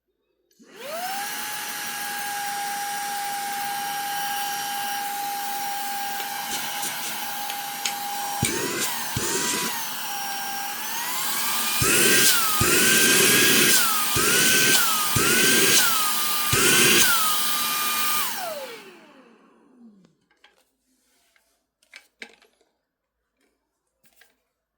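Baseus A5 cordless handheld car vacuum switched on, its motor spinning up to a steady high whine with a rush of air. About ten seconds in the whine steps up higher and louder, then dips and recovers about five times with bursts of louder rushing, before the motor is switched off and winds down. A few faint clicks follow.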